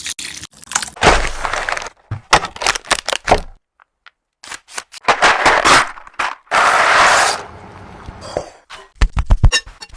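Close-miked food-preparation sounds for a mango shake: a string of sharp cracks, clicks and scrapes with several noisy stretches of about a second, a brief pause near the middle, and a quick run of clicks near the end.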